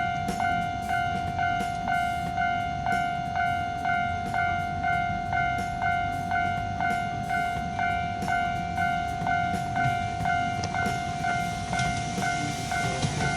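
Railway level-crossing warning bell ringing, a single clanging tone repeated a little over twice a second. A train's rumble grows near the end.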